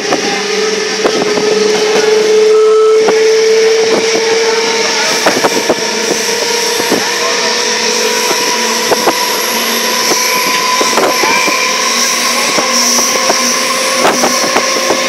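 Passenger train running at speed, heard from inside the coach at an open window: a loud steady rush of running noise with a whine that rises slightly over the first few seconds and then holds, and irregular clicks and knocks of the wheels over the track.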